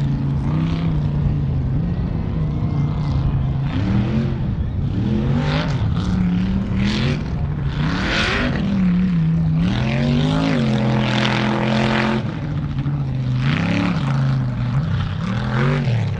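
A big vehicle engine running hard and revving repeatedly, its pitch climbing and dropping several times, with bursts of rushing noise over it.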